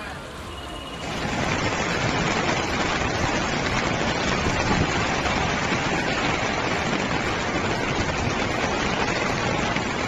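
Steady, loud rush of water, starting suddenly about a second in and holding even, with no rhythm or distinct events.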